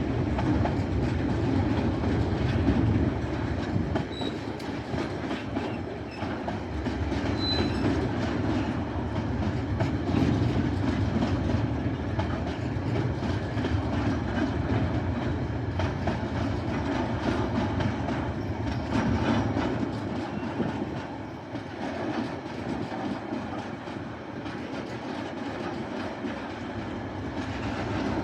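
Tasrail freight train's wagons rolling past, wheels clicking and rattling over the rail joints in a steady run, easing a little after about twenty seconds.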